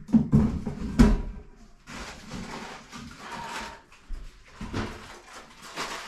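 Several sharp knocks and clunks in the first second or so, the loudest about a second in, followed by scraping and rustling with a few lighter knocks near the end.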